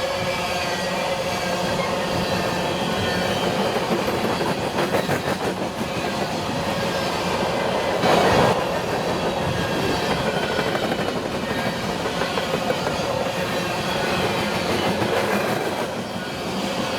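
Freight train rolling past, its wheels clacking over the rail joints in rhythmic clusters, with a brief louder burst about eight seconds in.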